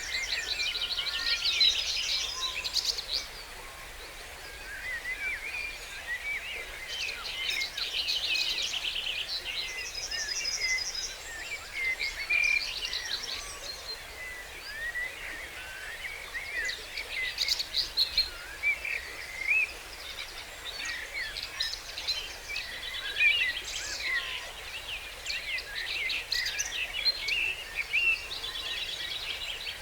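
Dawn chorus: many songbirds singing at once, with overlapping whistles, chirps and fast rattling trills that come in waves throughout.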